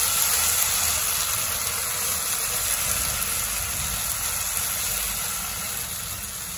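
Chopped tomatoes and onions sizzling in mustard oil in a frying pan as a silicone spatula stirs them, a steady hiss that fades slightly toward the end.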